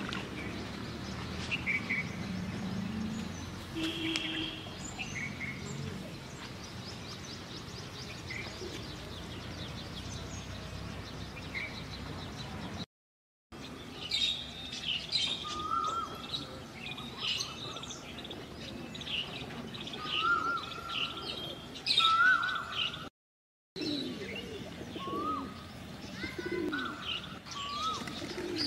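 Wild birds chirping and calling, with short upward-sliding whistled notes repeating in the second half and a low rumble during the first few seconds. The sound cuts out completely twice, briefly.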